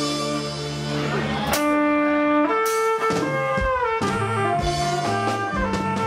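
Amplified band music for Thai likay folk theatre: a horn-like lead melody of held notes, some bending in pitch, over drums with a few sharp hits.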